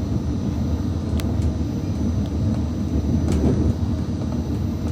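CrossCountry Class 220 Voyager diesel train running along the line, heard from on board as a steady low rumble. Two sharp clicks come through, about a second in and again about three seconds in.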